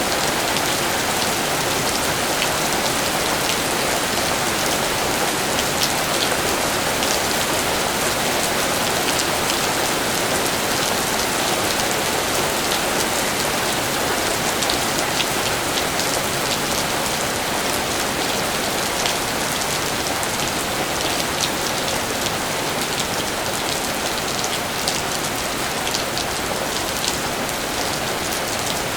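Steady rain falling: an even hiss with scattered sharper ticks of individual drops.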